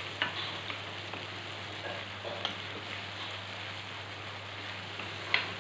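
Curry spice paste sizzling in oil in a wok as it is stirred with a wooden spatula, with a few sharp knocks of the spatula against the pan, the loudest near the end. The paste is being fried until the oil separates and rises on top (pecah minyak).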